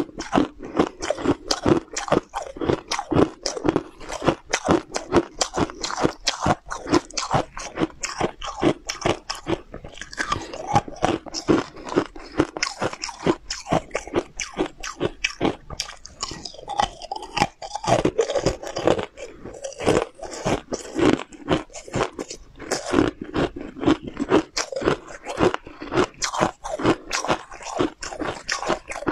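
Close-miked crunching and chewing of hard, brittle translucent sweets: many quick sharp crunches a second with wet chewing between bites.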